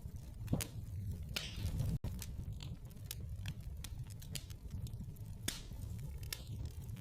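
Wood fire crackling in a fireplace: irregular sharp pops and snaps over a low rumble of flames.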